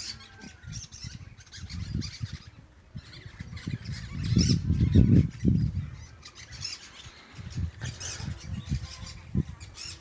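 A flock of parakeets chattering and squawking in short, sharp calls. Underneath is a low rumble on the microphone, loudest a little past the middle.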